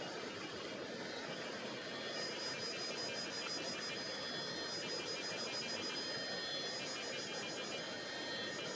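Steady rushing of the Tonghou River, a mountain river flowing over its bed. About two seconds in, a high, rapidly pulsing trill joins it.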